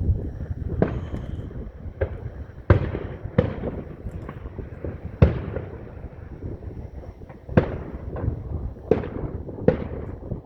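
Aerial fireworks going off: about eight sharp booms at uneven intervals, each trailing off in echo, over a continuous low rumble.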